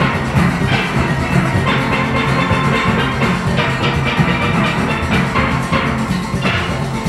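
A full steel orchestra of steelpans, backed by drums and percussion, playing a fast calypso arrangement.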